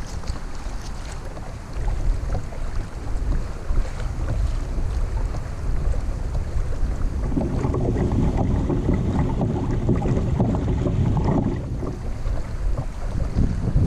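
Wind buffeting the microphone over water sloshing around a kayak at sea, the water noise growing louder and choppier for several seconds about halfway through.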